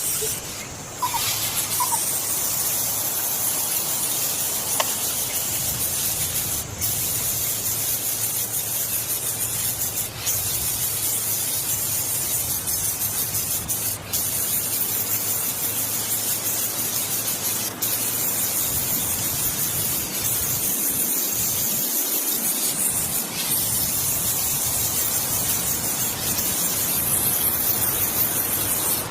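A steady, high-pitched hiss with no clear calls in it, broken by short dips every few seconds.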